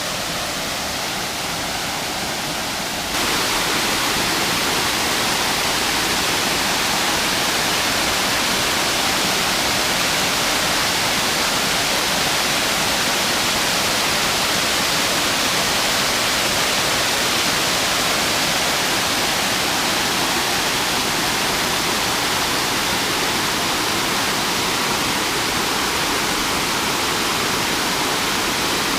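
Waterfall rushing steadily as water cascades down the rocks, becoming louder and fuller about three seconds in.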